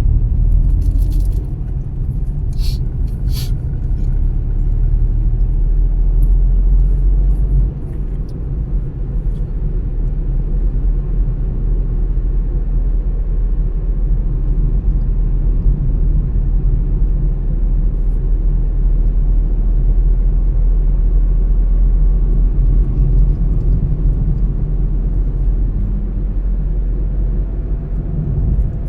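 Car driving along a road: a steady low rumble of engine and tyre noise, with a few short sharp knocks a few seconds in.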